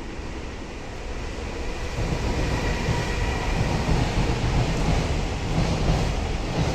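A train passing on the tracks, its rumble building about two seconds in and then staying loud, with a faint thin whine above it.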